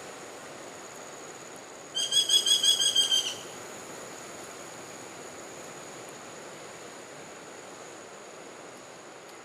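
Rufous woodpecker calling: one quick series of about ten ringing notes, about eight a second, lasting just over a second.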